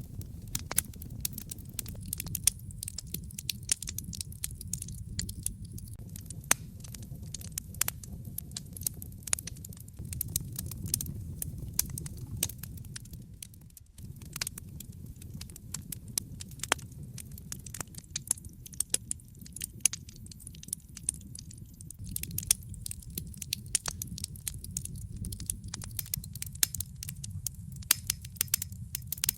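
Fireplace fire crackling, with a steady low rumble of the flames under a dense run of sharp pops and snaps. Near the middle the sound drops out for an instant, then picks up again.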